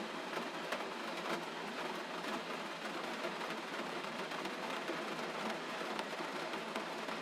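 Gentle rain falling steadily, an even hiss with a few faint ticks scattered through it.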